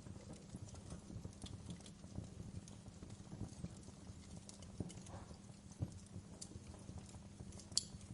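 Wood fire in a fireplace crackling, with many small irregular snaps and one sharp, louder pop near the end.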